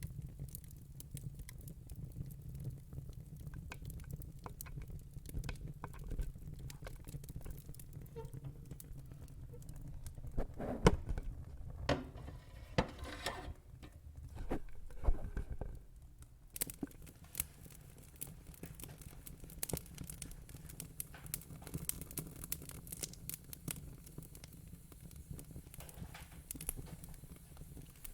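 Wood fire crackling: scattered sharp pops and snaps of burning logs over a steady low rumble, with a run of louder pops about halfway through.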